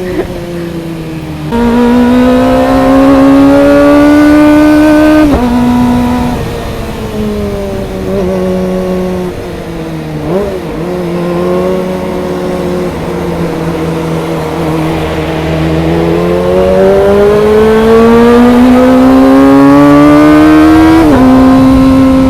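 Kawasaki ZX25R's 250cc inline-four engine under hard acceleration, its high-pitched wail climbing in revs and then dropping at an upshift about five seconds in. It runs lower through the middle, climbs again and shifts once more near the end.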